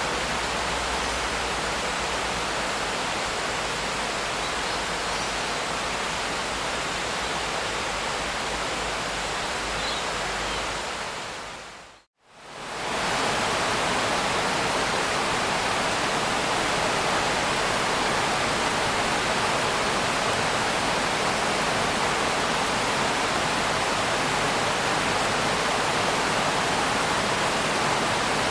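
Steady rain, a dense even hiss. About twelve seconds in it fades out to near silence and straight back in, slightly louder and without the low rumble it had before.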